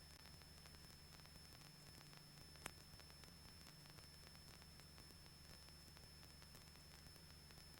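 Near silence: a faint steady hiss and low hum, with a thin steady high-pitched whine running through it. There is a single sharp click about two and a half seconds in.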